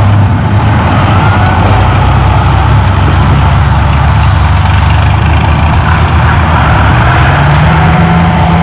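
Antique farm tractor engine running steadily at a loud level, its pitch rising a little near the end.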